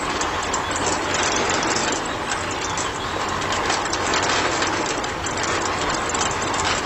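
Small motor and gears of a DIY toy-scale vehicle running, giving a steady, dense clatter of rapid clicks.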